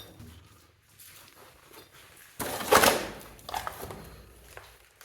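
Footsteps on the gritty floor of a mine work pit: one loud scraping crunch about two and a half seconds in, followed by a few lighter steps.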